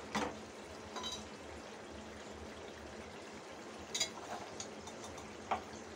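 Ground onion, tomato, garlic and ginger masala paste sizzling and bubbling in oil in a pan, a steady low hiss with a few light clicks.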